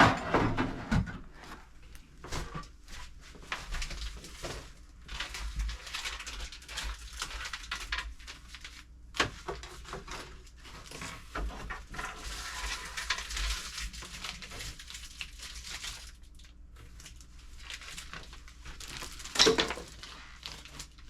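Food packaging rustling and crinkling as it is handled, with scattered clicks and knocks of items and containers set down on pantry shelves. The loudest knocks come right at the start and near the end.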